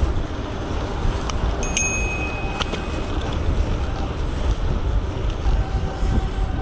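Wind rushing over the microphone, with rolling noise from an electric bike ridden along the road. A few clicks and a brief high-pitched ring come about two seconds in.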